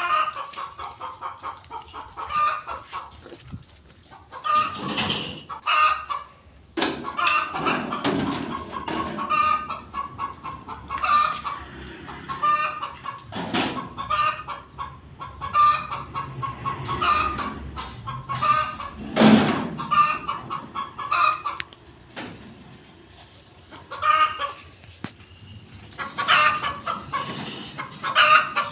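Chickens clucking in repeated short bouts, with a few sharp knocks in between.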